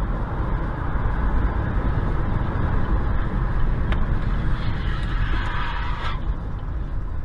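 Steady rumble and road noise of a moving car, with a single click about four seconds in.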